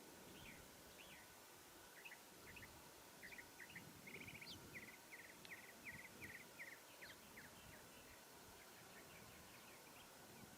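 Faint bird chirping over a near-silent background hiss: scattered short chirps, with a run of quick repeated notes in the middle.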